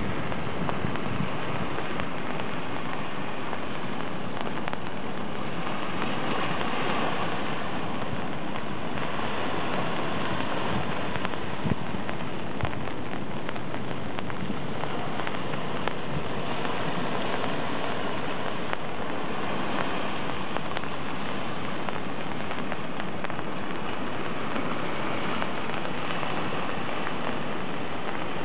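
Steady rain falling: an even hiss that does not change, with many small scattered ticks of drops.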